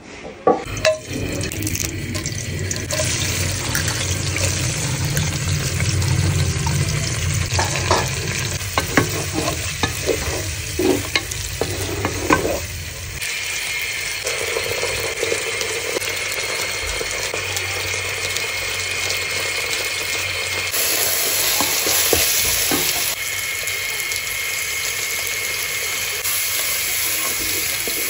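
Sliced onions and whole spices frying in hot oil in a pot, a steady sizzle. A utensil clacks and scrapes against the pot as they are stirred in the first half. The sizzle shifts abruptly in tone and strength a few times.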